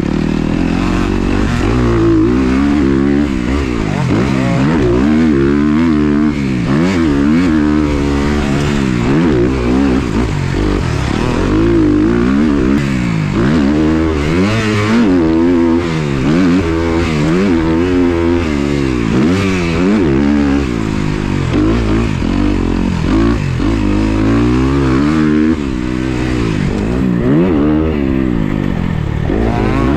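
Motocross dirt bike engine revving up and dropping off again and again as the throttle is worked on and off, the note climbing and falling every second or two while the bike is ridden around a track.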